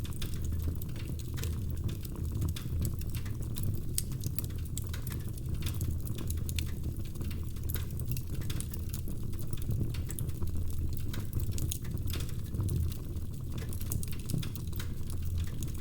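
Wood logs burning in a fireplace: a steady low rumble of the fire with frequent small, irregular crackles and pops.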